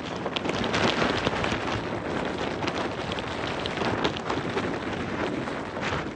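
Blizzard wind, a steady rushing noise with many small ticks of driven snow striking.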